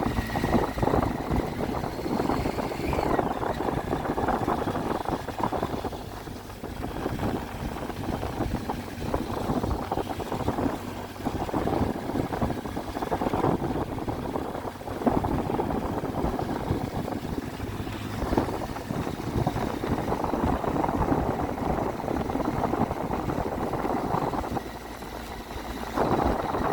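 Triumph Tiger 800's three-cylinder engine running while under way, its sound mixed with road and wind noise. The engine sound swells and falls back repeatedly as the throttle is opened and closed, easing off about six seconds in and again shortly before the end.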